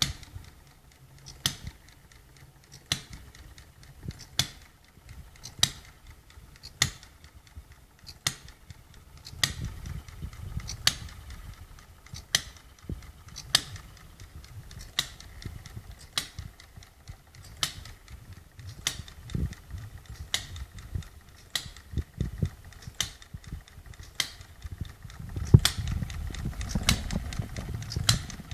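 Hired Man model hit-and-miss engine running, with a sharp snap about every second and a half, over a low rumble that grows louder twice.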